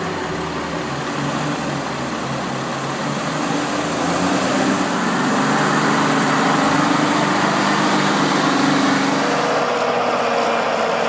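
Heavy logging vehicle's diesel engine running steadily, growing louder about four seconds in and holding there, with a higher tone coming in near the end.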